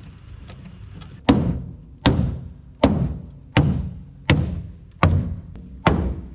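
Hammer blows on a screwdriver used as a chisel to cut through the pickup's bed floor, seven strikes at an even pace of about one every three-quarters of a second, starting about a second in.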